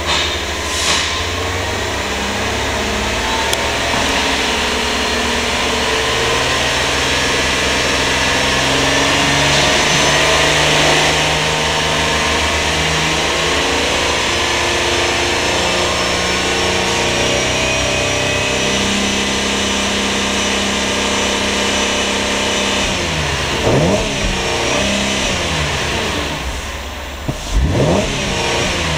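2008 Holden Commodore's 3.6-litre V6 revved in Park, held at around 3,000 rpm, then let down, heard from inside the cabin. Near the end the engine pitch swings quickly twice as the revs fall back.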